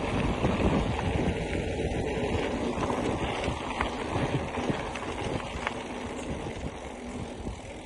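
Wind buffeting the microphone as a bicycle rolls over a dirt trail, with scattered clicks and rattles from the bike; the noise eases off slightly toward the end.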